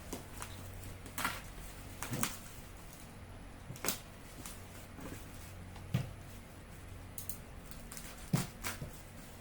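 Irregular clicks and light knocks of objects being handled, about a dozen spread unevenly, over a low steady hum.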